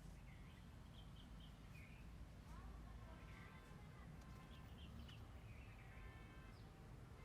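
Quiet background ambience: small birds chirping now and then over a low steady rumble.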